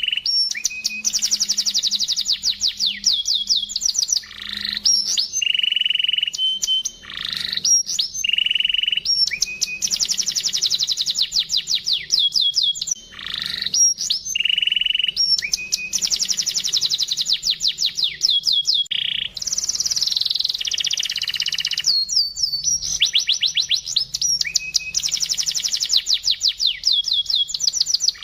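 Domestic canary singing: its song repeats over and over, each phrase mixing fast trills of quick falling notes with held whistled notes. The voice is clear and crystal-bright, the kind used as a master song to teach other canaries.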